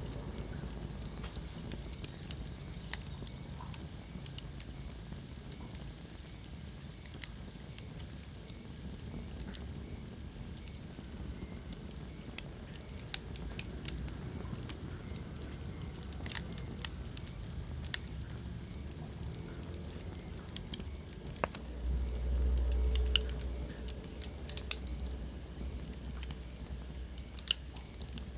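Wood fire burning, crackling with many sharp, irregular pops and snaps over a steady low rumble of flames. About three quarters of the way through, the low rumble swells louder for a couple of seconds.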